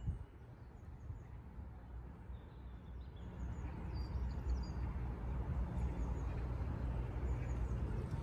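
Small birds giving short, faint, high chirps over and over. Underneath them, and louder, is a low steady outdoor rumble that grows a little louder about three seconds in.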